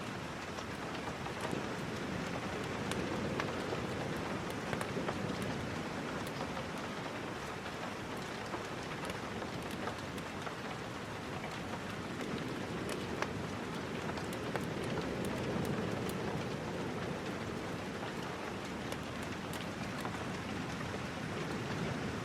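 Steady rain falling, with scattered sharp ticks of drops throughout. A deeper rushing swell builds and fades twice, early and again about halfway through.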